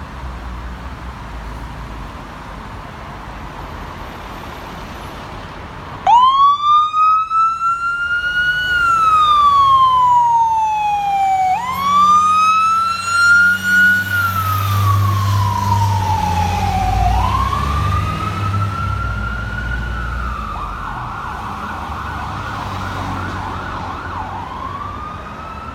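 Fire engine siren starting about six seconds in, wailing in long rising and falling sweeps. Near the end it switches briefly to a fast warbling yelp before rising again. A deep truck rumble swells under it as the apparatus passes.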